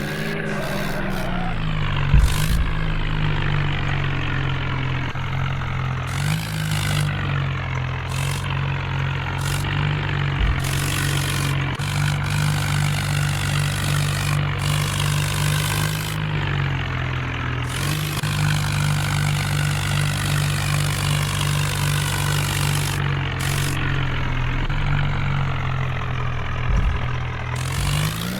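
Heavy diesel engine running steadily, its pitch lifting slightly twice as the revs change.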